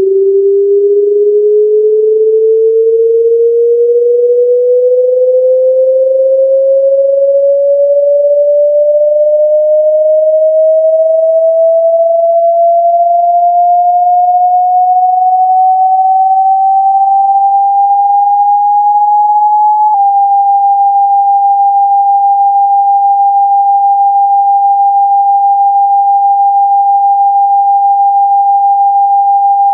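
Synthesized pure sine tone of a speaker-cleaning sweep, played to vibrate water and dust out of a phone speaker. It rises slowly and smoothly in pitch for about twenty seconds, then switches with a faint click to a steady, slightly lower high tone that holds to the end.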